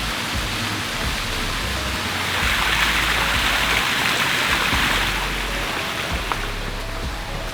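Steady rushing of water falling in a small waterfall, a little louder in the middle.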